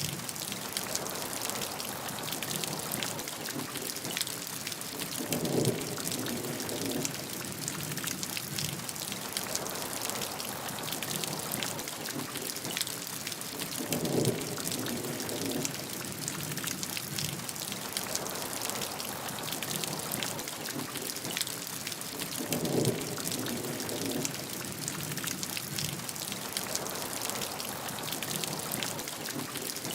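Steady rainfall, a dense hiss of drops pattering on a surface. A brief, deeper swell rises about every eight and a half seconds.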